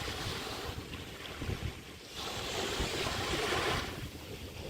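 Small bay waves washing up on a sandy beach, two swells of surf rising and fading, the second from about two seconds in to near the end, with wind buffeting the microphone.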